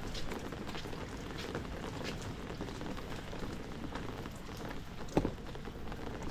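Heavy rain falling on surfaces, a steady wash of noise with scattered drips and splashes. A single sharp knock stands out about five seconds in.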